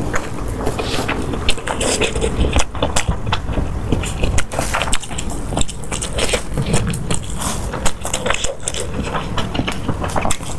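Eating sounds: irregular crunching and chewing of crispy food, many sharp crackles in quick succession over a steady low hum.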